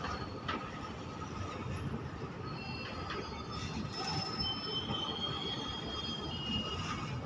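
Covered goods wagons of an Indian Railways freight train rolling slowly past with a steady wheel-on-rail rumble. Thin, high metallic wheel squeals come in around the middle.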